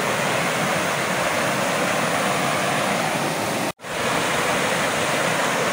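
Steady rush of falling water from a cascade, broken by a brief dropout just before four seconds in.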